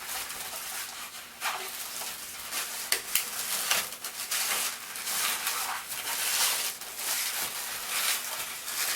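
Inflated 260 latex modelling balloons being twisted and handled: rubbery squeaks and rubbing, with many short scratchy bursts throughout.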